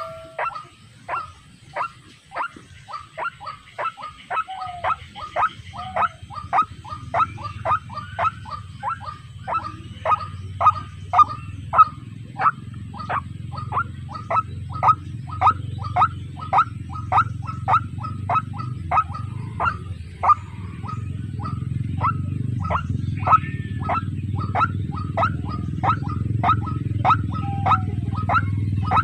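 White-breasted waterhen calling: a long, steady series of short falling notes, about two a second. Under the calls is a low rumble that grows louder about two-thirds of the way through.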